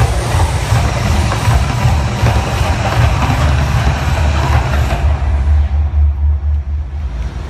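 A loud deep rumble from the Mirage volcano's eruption effects, with a hissing rush of noise over it. The rush fades out about five seconds in, and the rumble stops just before the end.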